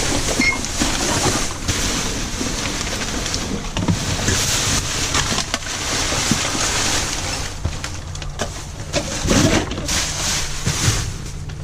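Wind buffeting the microphone over rustling and scattered knocks of packaged goods being dumped out and sorted.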